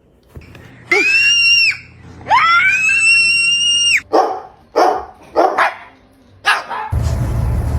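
Dog giving two long, high whining howls, then four short barks. A loud, steady rumbling noise takes over near the end.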